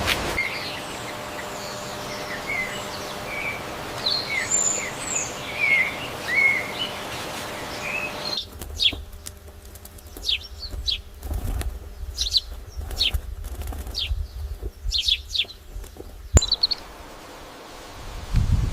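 Birds chirping in short, scattered calls over a steady hiss. About eight seconds in, the sound cuts abruptly to a different recording of sharp, falling chirps over a low rumble.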